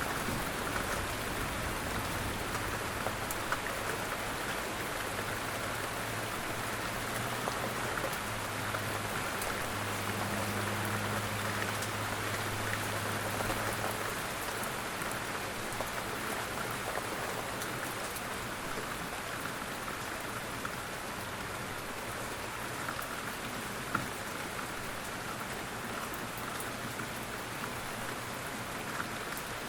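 Steady rain falling, an even hiss with scattered individual drops ticking on a surface. A low hum sits underneath, stronger in the first half, and one sharper drop tick stands out near the end.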